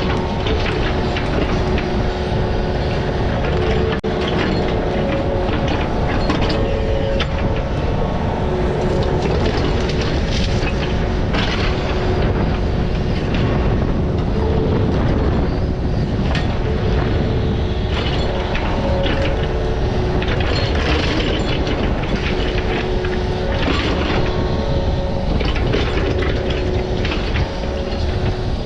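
Excavator engine and hydraulics running steadily under load, with repeated metallic clanks and scrapes from the bucket working in rocky soil.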